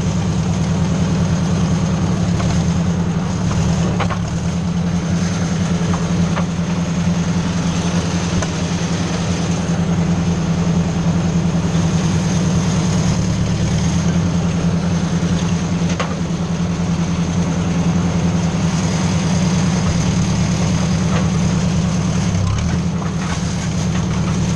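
Ford 600 tractor's four-cylinder engine running steadily, with a few faint clicks.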